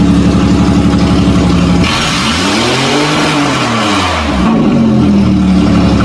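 1992 Toyota 4Runner engine running loud with no exhaust fitted: idling, then revved once about two seconds in, the pitch climbing and falling back to idle over about two seconds.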